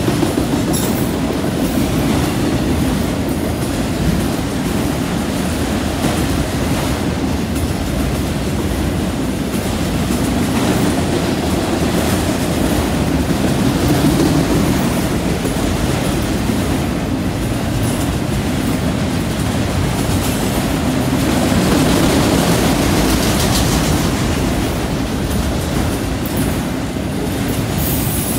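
Freight train's autorack cars rolling past, a steady rumble of steel wheels on rail.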